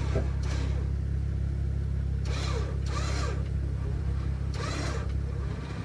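Off-road vehicle engine idling with a steady low rumble, with faint voices twice in the background.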